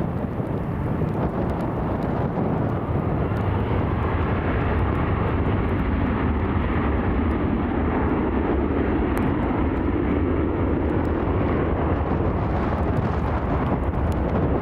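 Boeing 737 jet engines running, a steady roar as the airliner departs.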